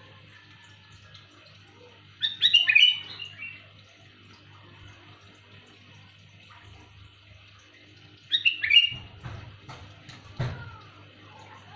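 Sooty-headed bulbul (kutilang) giving loud, clear calls: two short bursts of quick falling notes, one a couple of seconds in and one about eight seconds in. A few soft low knocks follow the second burst.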